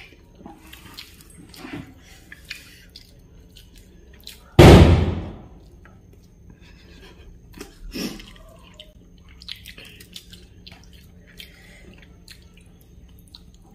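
Close-up eating sounds: wet mouth clicks and lip smacks while chewing. One loud thump comes about four and a half seconds in, and a sharper click near the eight-second mark.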